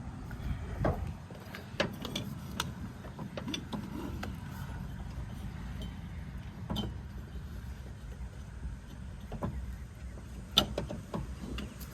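Scattered clicks and light knocks of a deck belt being worked around the metal pulleys of a John Deere S100 riding mower deck, with the sharpest knock near the end, over a low steady rumble.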